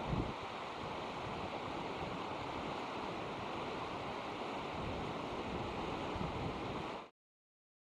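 Steady rushing noise of flowing river water mixed with wind on the microphone; it cuts off suddenly about seven seconds in.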